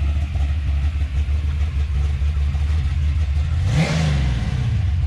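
Classic muscle car's engine idling, revved once briefly near the end so the pitch rises and falls back.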